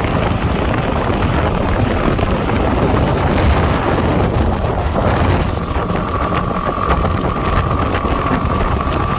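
Motorcycle under way, its engine running under heavy wind noise on the microphone. A steady high whine joins about halfway through.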